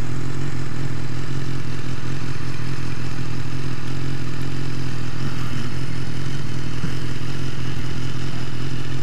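2014 BMW S1000R inline-four engine idling steadily with the bike stopped at a traffic light.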